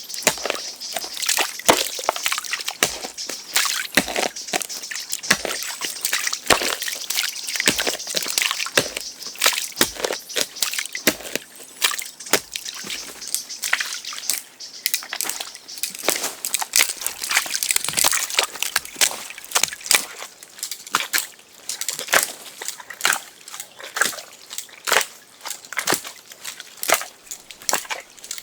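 Wet sloshing and scraping with many short, irregular knocks: hand work in shallow water or wet mud.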